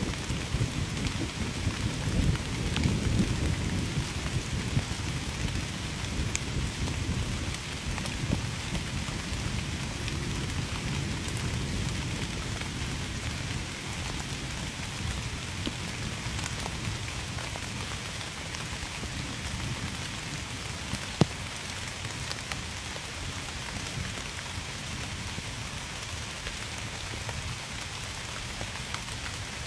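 Steady heavy rain falling, with a low rumble of thunder in the first part that slowly dies away. A single sharp tick of a drop stands out about twenty seconds in.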